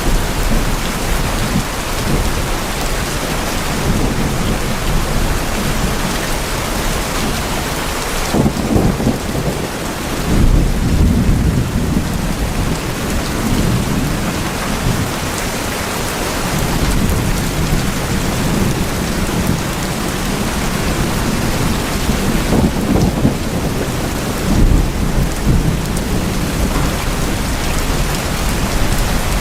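Steady rain drumming on tin roofs, with thunder rumbling low beneath it about eight seconds in and again about twenty-two seconds in.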